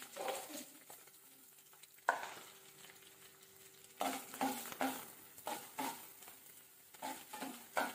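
Chopped onion pieces frying in hot oil in a pan. The sizzle starts suddenly about two seconds in, and from about four seconds a metal spoon stirs and scrapes them around the pan in repeated strokes.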